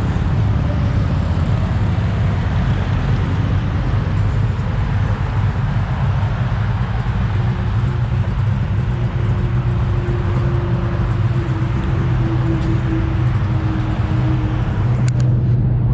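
Car engine running steadily with a deep, unbroken low rumble.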